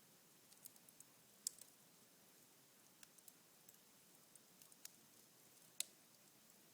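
Cherry-wood fire burning down to embers in a fireplace: faint, scattered crackles with two sharper pops, one about a second and a half in and one near the end.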